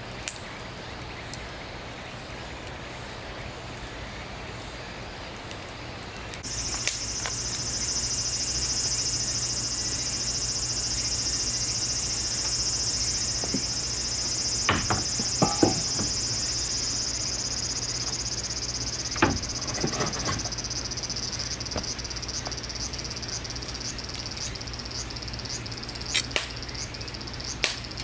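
An insect starts a loud, steady, high-pitched buzz about six seconds in and keeps it up without a break. A few sharp cracks and knocks are scattered through it.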